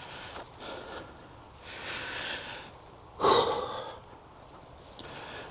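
A man breathing hard while climbing a steep path: a soft breath about two seconds in and a louder, short exhale just after three seconds.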